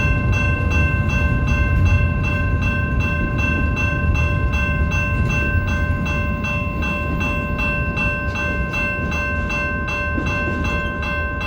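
BNSF freight train rolling by with a steady low rumble. Over it run several steady ringing tones, pulsing evenly about twice a second.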